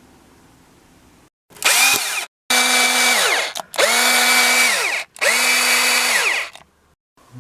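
Electric drill run in four short bursts, its motor spinning up to a steady whine and winding down each time the trigger is released.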